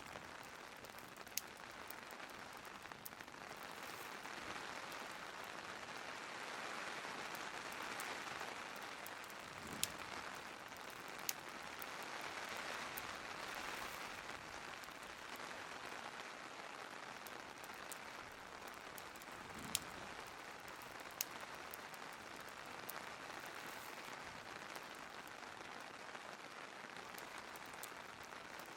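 Steady hiss of rain, with a few sharp isolated pops from a crackling wood fire.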